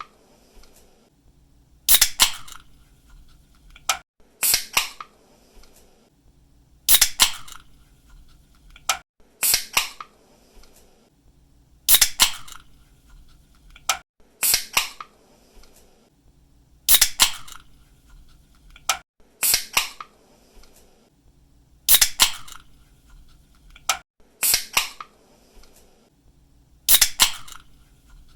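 Aluminium pull-tab drink can being cracked open over and over, about once every two and a half seconds. Each time there is a small click, then a sharp snap and a short fizzing hiss as the pressure escapes.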